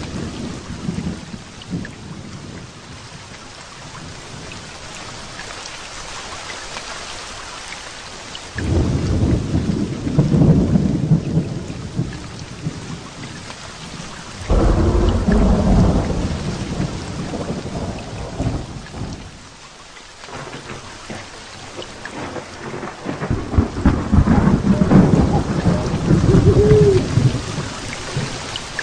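Heavy rain falling steadily through a thunderstorm, with three long rolls of thunder: one about a third of the way in, one around the middle, and one near the end.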